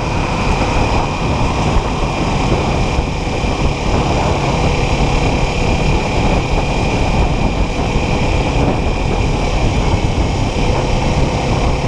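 Kawasaki Ninja 400's parallel-twin engine running steadily while cruising, heard under loud, steady wind noise on the rider's helmet or camera mic.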